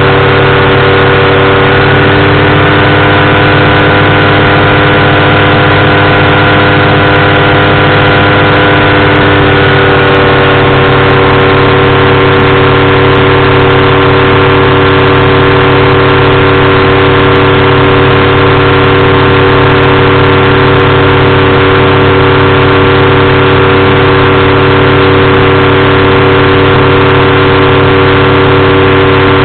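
Powered parachute's engine and propeller running steadily, very loud and close to the microphone. The tone shifts slightly about ten seconds in.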